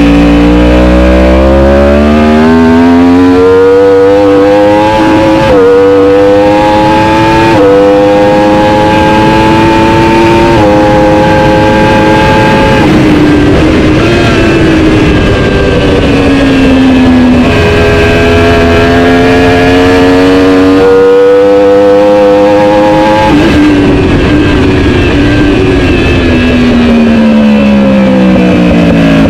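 Racing superbike engine at full throttle, climbing in pitch through the gears with a sharp drop at each quick upshift. It then falls in pitch as the bike slows for a corner, and this happens twice.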